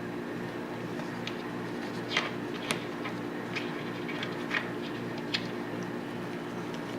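About half a dozen sharp metal clicks and taps, scattered through the middle few seconds, from Tokarev TT-33 pistol parts and tools being handled during reassembly, over a steady background hum.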